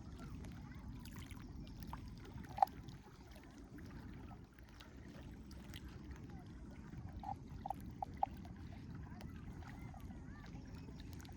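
Outdoor ambience at a dam reservoir: a steady low rumble with a few short, high chirps, one about two and a half seconds in and a quick run of four near the end.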